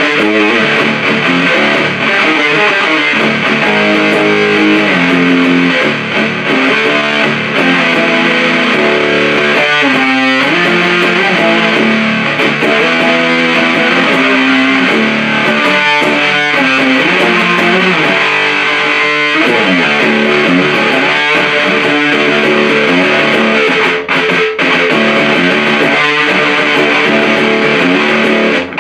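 Electric guitar played through a 77 Fuzz Blender fuzz pedal, a Big Muff–style fuzz, into an Orange Super Crush 100 amp: heavy, distorted riffs with sliding notes. The playing stops right at the end and the last notes die away.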